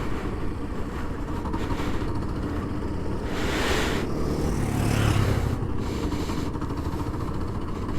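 Small motorcycle engine running at low speed while being ridden, its note rising a little about five seconds in. A brief rush of wind or air noise comes a little past three seconds in.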